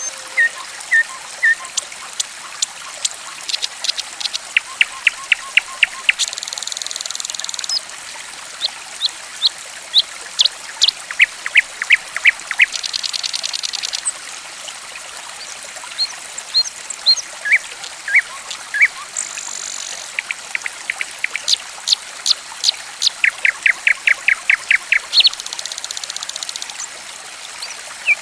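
Songbird calls over a steady trickle of running water: sharp chirps, quick runs of rapid notes, and four harsh buzzing notes of about a second and a half each.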